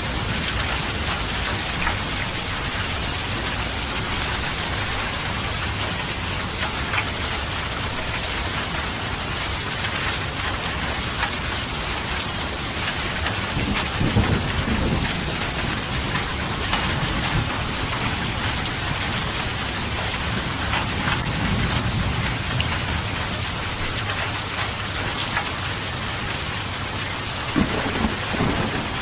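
Steady rain falling, with low rumbles of thunder about halfway through, again a few seconds later, and near the end.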